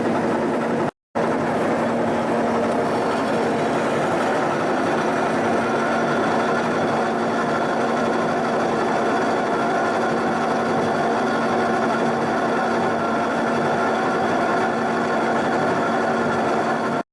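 Milling machine running steadily with a dovetail cutter cutting the lathe cross slide's dovetails, a steady hum with a whine over it. The sound drops out for an instant about a second in and cuts off abruptly at the end.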